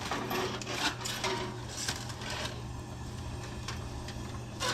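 Light clattering and rattling of a foil-covered baking pan being handled and moved into an oven broiler, over a steady low hum, ending with a louder knock.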